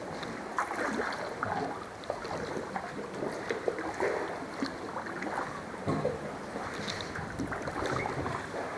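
Kayak paddling: paddle blades dipping and splashing in the water in irregular strokes, with water and wind noise around them.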